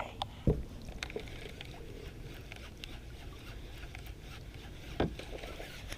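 Sounds of a fishing kayak on the water: a low, steady wind rumble with faint ticks, and two short dull knocks, one about half a second in and one near the end.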